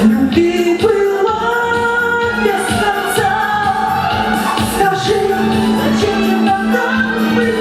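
A woman singing a pop ballad, holding long notes over a backing track with a steady bass note and a regular drum beat.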